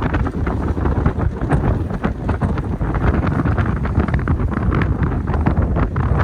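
Strong gale-force wind buffeting the microphone: a continuous loud rumble with constant crackling gusts.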